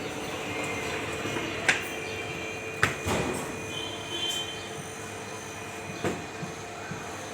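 A steady mechanical hum with three sharp clicks or knocks, and a brief high squeak between the second and third.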